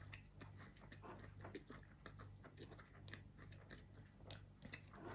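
Faint chewing of a mouthful of beef-and-rice bowl, with many small wet mouth clicks.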